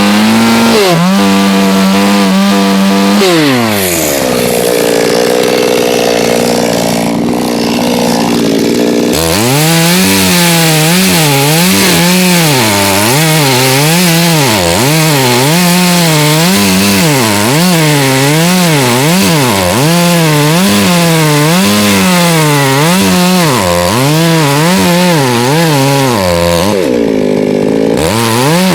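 Two-stroke chainsaw cutting oak firewood at high revs. The engine pitch rises and falls about once a second as the chain bites and frees in the cut. A few seconds in it drops and holds steadier for about five seconds, and it dips briefly once more near the end.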